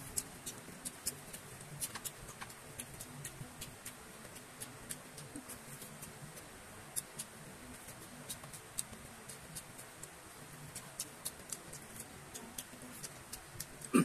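Eating sounds: faint, irregular small wet clicks of a person chewing food, a few a second, with a louder one right at the end.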